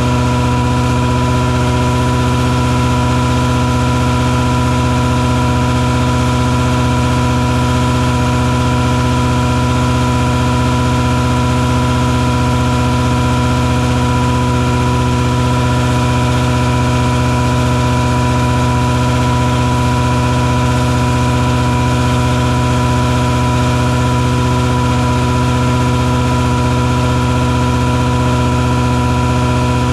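Engine on a mosquito-fogging truck running steadily at a constant speed, an even, unchanging drone.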